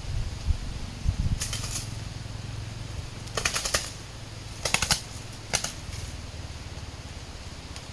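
Four short bursts of rapid clattering and rattling, with a faint low rumble underneath, as the trap pen holding a freshly caught spotted dove is taken down and handled.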